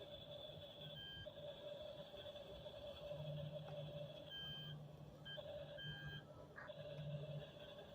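Double E remote-control toy track-type tractor running, its electronic sound effects giving a faint steady tone with several short beeps like reversing beeps.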